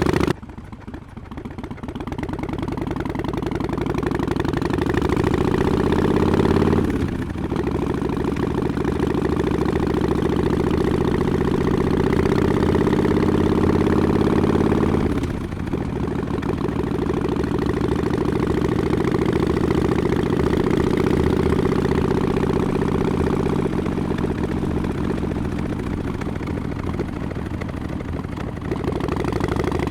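Harley-Davidson Forty-Eight's 1200 cc V-twin running through Vance & Hines Short Shots exhaust, pulling away and climbing in pitch, with two brief gear changes, then cruising steadily with short throttle lifts near the end.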